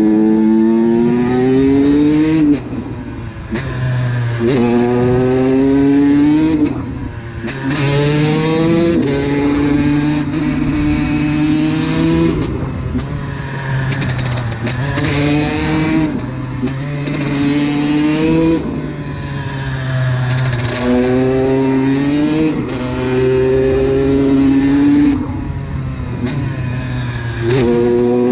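Honda CR125's two-stroke single-cylinder engine under hard acceleration, its pitch climbing and then dropping again and again as the rider opens and closes the throttle. There are about a dozen rising pulls in all.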